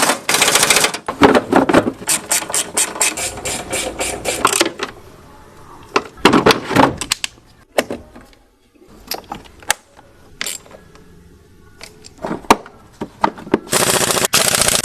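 Impact wrench running in rapid hammering bursts while bolts are driven during transmission reassembly, with sharp metal tool clicks and clanks in the pauses between bursts.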